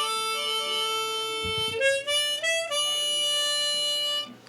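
Harmonica playing a few notes: a long held note, a quick run of short notes rising in pitch, then another long held note that stops shortly before the end.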